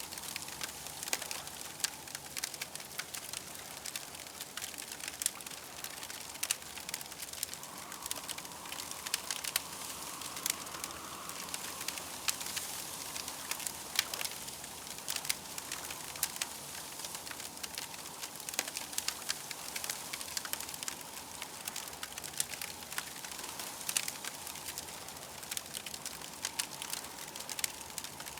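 Campfire crackling, with frequent sharp pops over a steady hiss. A faint higher tone swells in the background about eight seconds in and fades a few seconds later.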